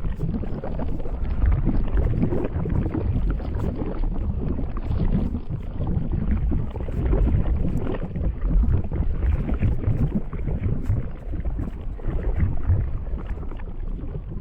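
Lava flow: a low, uneven rumble with faint scattered crackles, heavily buffeted by wind on the microphone.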